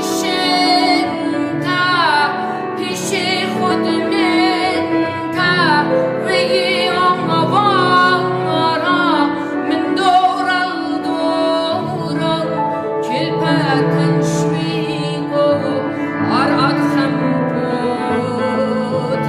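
Assyrian song: a singer's melody with wavering, sliding held notes over steady instrumental accompaniment.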